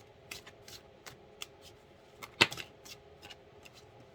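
Tarot cards being handled and laid out: a string of light card snaps and taps, with one sharper slap about two and a half seconds in.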